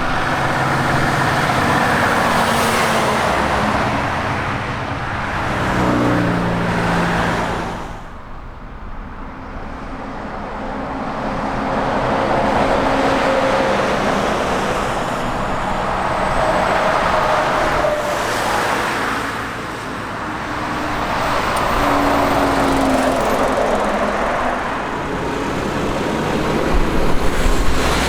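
Heavy trucks passing one after another on a road: diesel engines and tyre roar swell and fade with each pass, with a brief lull about eight seconds in.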